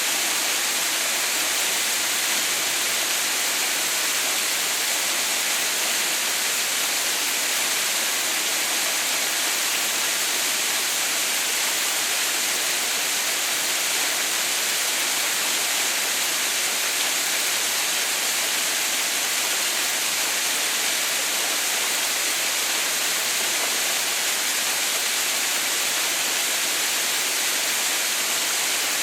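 Waterfall running, its falling water making a steady, unbroken rush with no pauses or changes.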